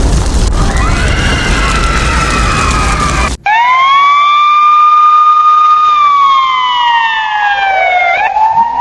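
Fire-engine siren wailing: for the first few seconds it sounds under a loud rushing noise, then a sudden cut leaves a clean siren tone that rises, holds, slowly falls and begins to rise again near the end.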